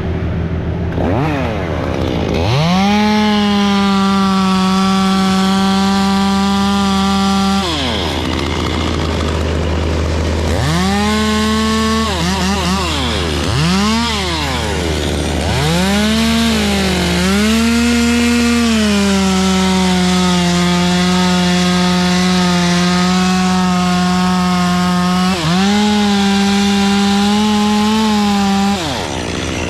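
Two-stroke chainsaw run at full throttle in long pulls of several seconds, cutting wood, with quick blips of the throttle up and down between pulls. A steady low engine hum runs underneath.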